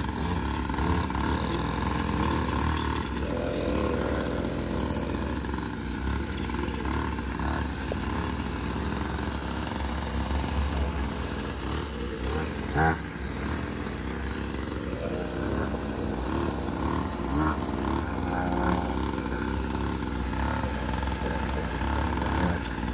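Dirt bike engine running, its pitch rising and falling now and then as it is throttled, with one sharp knock about 13 seconds in.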